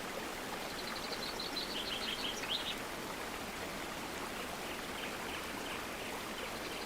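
River water flowing steadily, with small birds chirping in quick high runs about a second in and again near the end.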